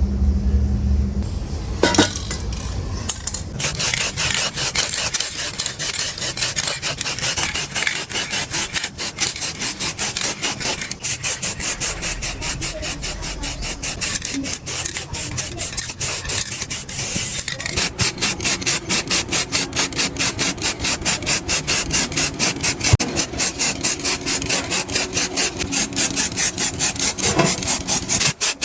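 Rapid, rhythmic back-and-forth rubbing strokes of hand abrading work, such as filing or scrubbing a part of the old weighing scale. There is one sharp click about two seconds in, the strokes start a little after, and they become very even and regular in the second half.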